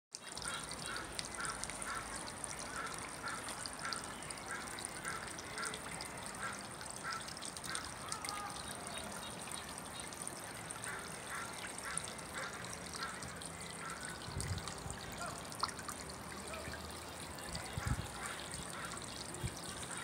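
A bird calling in short repeated notes, a few a second, in two bouts, over the steady trickle of a small garden fountain. A couple of low thumps come in the second half.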